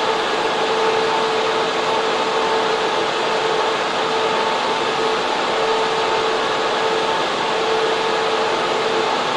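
Data centre server room: server fans and air-cooling units running, a continuous even rush of air with a steady mid-pitched hum on top.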